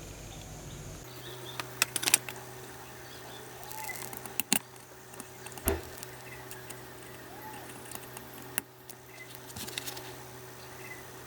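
Scattered sharp clicks and taps of small metal parts and hand tools being handled on a workbench, over a steady low hum.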